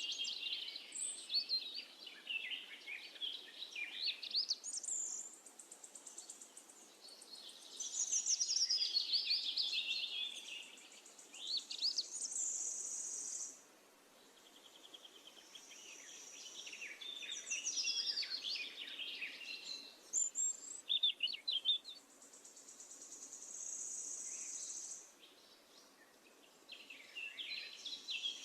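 Songbirds singing in overlapping phrases of quick high chirps and trills, with a high buzzy trill held for a couple of seconds twice, and brief lulls between.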